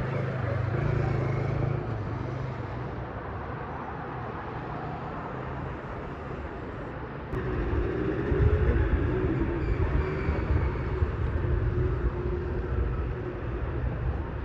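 Busy road traffic at an intersection: a steady wash of engines and tyres, turning louder with a heavier low rumble of passing vehicles about halfway through.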